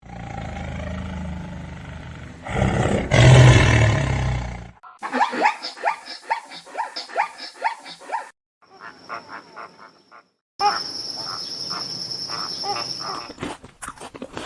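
A big cat growling and then roaring loudly in the first five seconds. After it, separate short clips of other animals calling in quick repeated notes, with a steady high whine under the last two.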